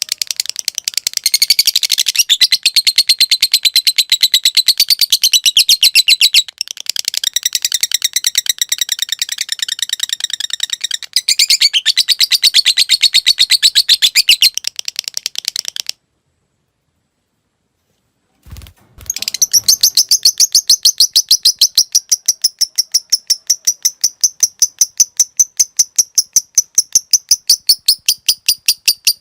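Lovebird giving its long 'ngekek' chatter: a fast, unbroken string of high, shrill notes. The chatter breaks off into silence a little past the middle, two low knocks follow, and then a long run of the same chatter resumes.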